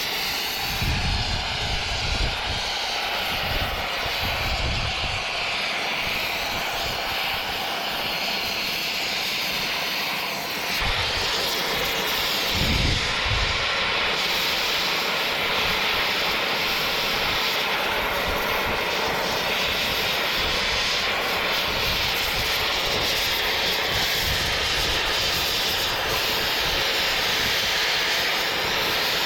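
Steady loud hissing roar of a machine, with a few low thumps in the first seconds and again around thirteen seconds in.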